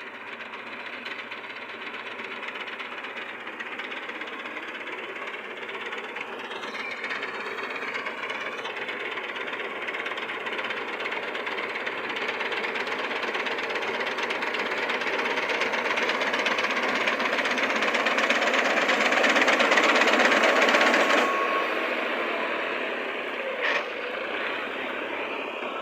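Tractor engine running with a steady clattering rattle, growing louder over about twenty seconds, then easing off about 21 seconds in, with a sharp click a couple of seconds later.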